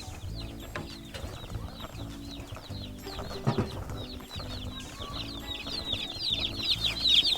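A brood of young chicks peeping constantly, many high, falling peeps overlapping, growing louder near the end. Background music with steady low notes runs underneath.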